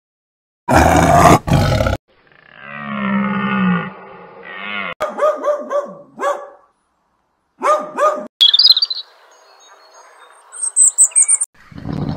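A string of separate animal calls cut one after another: a loud roar about a second in, then a drawn-out call, then short repeated calls, and high chirps near the end.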